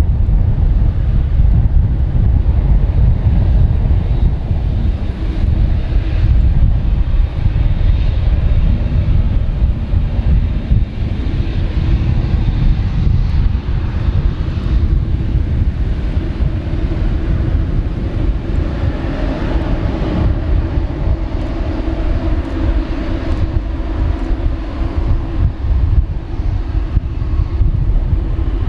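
Airbus A350-900's Rolls-Royce Trent XWB turbofans at takeoff power: a loud, steady jet roar with a deep rumble, and a droning tone that comes up about halfway through.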